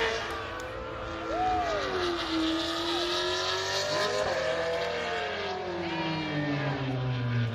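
Drag-racing car's engine at full throttle down the track. Its pitch peaks at the start, then falls steadily over several seconds as the car pulls away, with short rising-and-falling tones over it a second in and again about four seconds in.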